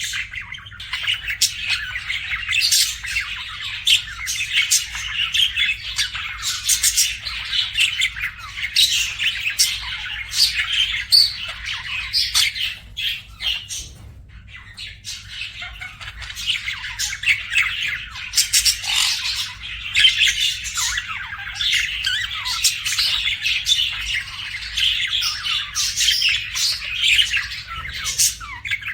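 Budgerigars chirping and chattering continuously in busy, overlapping calls, with a brief lull about halfway through.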